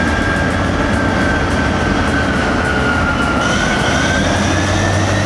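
A large earthmoving machine running loudly, with a low steady hum under a high whine that dips slightly and then climbs again after about three seconds.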